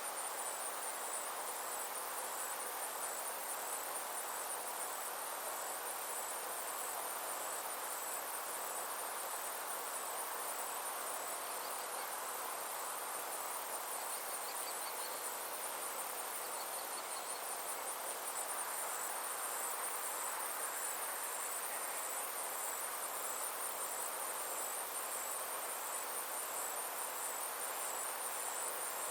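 Summer insects, crickets or similar, trilling steadily: a high, finely pulsing trill that never stops, over a soft even hiss, with a few faint short chirps near the middle.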